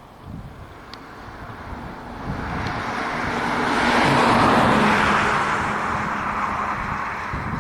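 Boeing C-17A Globemaster III's four turbofan jet engines at takeoff power passing the microphone: a broad rushing roar that swells to a peak about four and a half seconds in, with a steady low drone under it, then eases slightly.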